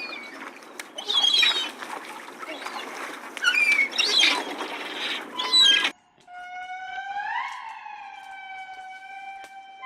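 Farm animal calls: for about six seconds, short squawking calls over a noisy background. Then, after an abrupt change, one long pitched call rises in pitch and holds steady for about three seconds.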